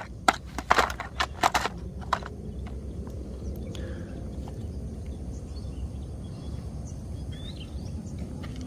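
Handling of plastic toys: several sharp clicks and knocks in the first two seconds, then a steady low background rumble.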